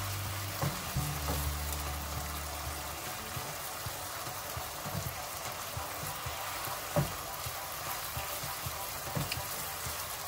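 Cubed chicken breast frying in sauce in a non-stick pan, with a steady sizzle and a few light knocks of the wooden spoon against the pan as it is stirred.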